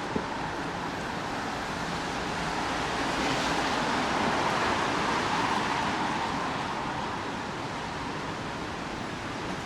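Steady hiss of rain and wet city street noise. It swells louder for about three seconds in the middle as a vehicle passes on the wet road, tyres hissing.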